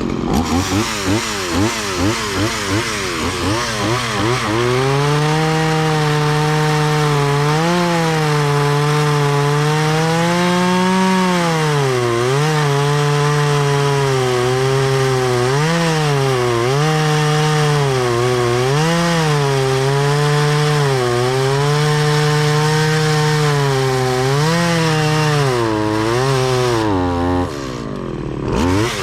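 Stihl MS170 two-stroke chainsaw with a semi-chisel chain, first blipped rapidly up and down for a few seconds, then held at high revs while cutting wood, the pitch sagging and recovering again and again under load. Near the end it briefly drops toward idle and then revs back up.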